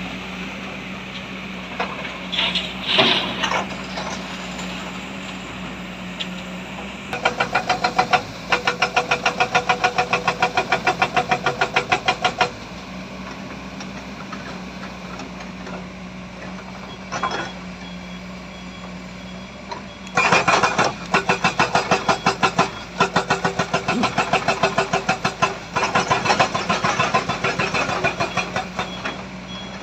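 Heavy diesel machinery of a dump truck and excavator running steadily, with two long stretches of rapid, even clattering at about five knocks a second. A faint repeating beep, a reversing alarm, comes in near the end.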